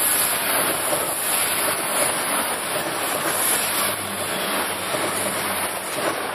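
Irish Rail 22000 Class InterCity Railcar diesel multiple unit passing close by at speed: a loud rush of wheels on rail with a steady low hum of its diesel engines, beginning to fade as the last car goes by at the very end.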